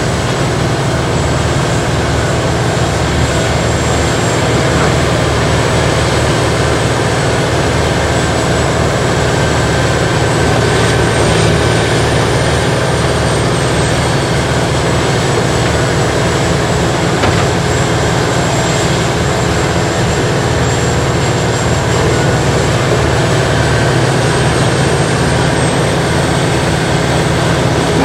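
An 80,000-pound Morbark tracked horizontal grinder running at a steady, loud drone as it grinds fire debris, with a thin high whine that wavers slightly.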